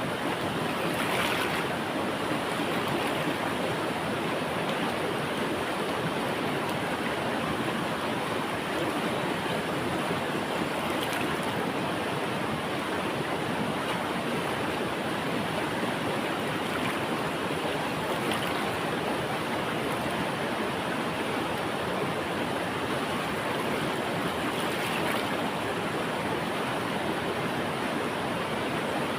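Steady rushing of a flowing river, an even wash of water noise with no pauses.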